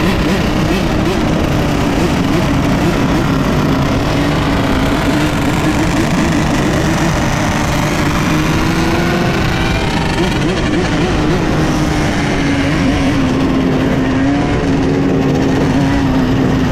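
Several dirt bike engines running and revving up and down together, over a steady rumble.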